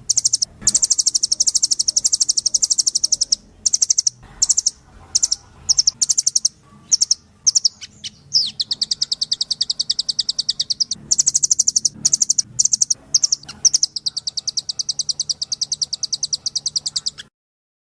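Blue nuthatch (Sitta azurea) calls: fast, high trills of evenly repeated notes. Several long runs alternate with short bursts, and the calls stop abruptly near the end.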